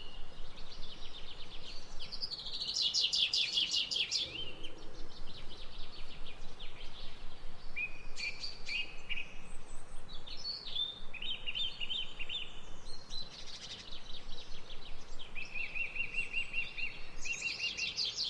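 Several songbirds singing at once, with rapid trills of repeated notes and chirping phrases overlapping one another, over a faint steady background hiss.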